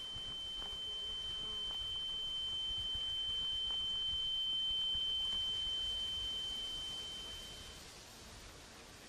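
A single steady high-pitched pure tone, held without a break, swelling then fading and stopping about eight seconds in.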